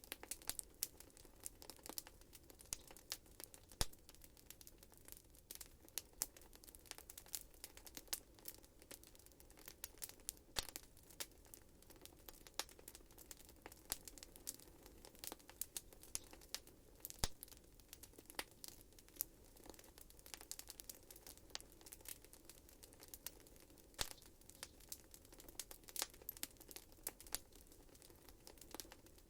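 Wood fire crackling in a fireplace: irregular sharp pops and snaps, a few much louder than the rest, over a faint steady background.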